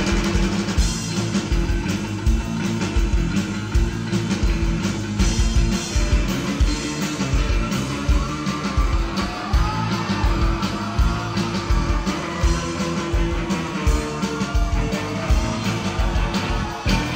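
Rock trio playing live: an instrumental passage with guitar over a steady drum beat.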